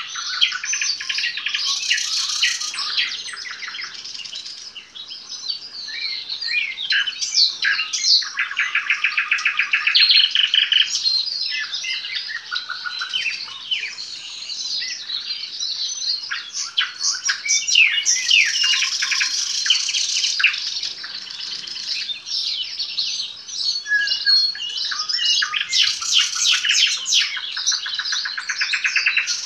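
Nightingale singing a long, varied song of quick chirps, whistles and glides, broken by fast rattling runs of repeated notes about eight seconds in and again near the end.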